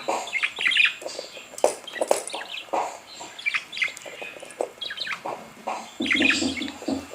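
Birds chirping and twittering in quick, irregular short calls, several overlapping.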